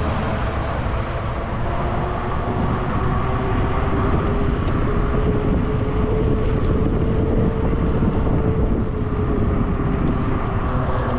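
Riding noise from a fat-tire e-bike in motion: wind rushing over the microphone under a steady humming drone from the moving bike.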